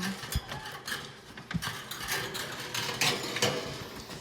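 Irregular clicking and rattling of small hard objects being handled.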